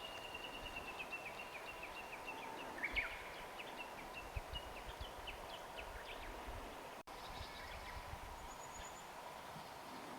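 Birds singing: a rapid run of short high notes falling slightly in pitch over the first few seconds, then scattered chirps, faint over a steady background hush.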